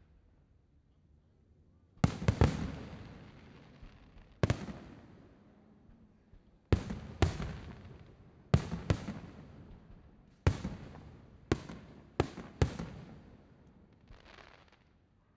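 Aerial fireworks shells bursting: about a dozen sharp bangs at irregular intervals, some in quick pairs, each followed by a rolling echo. They start about two seconds in and stop shortly before the end.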